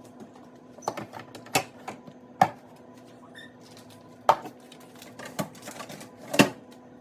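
Scattered knocks and clatters of kitchen containers and items being handled and set down, a few sharp ones spaced a second or two apart.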